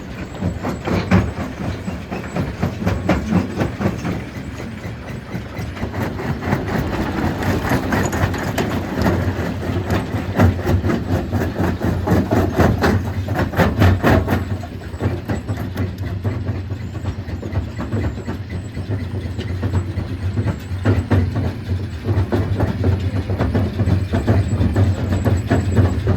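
Stone crushing machine at work: a steady low drone from its drive, overlaid by continuous irregular clatter and knocking of rock being broken.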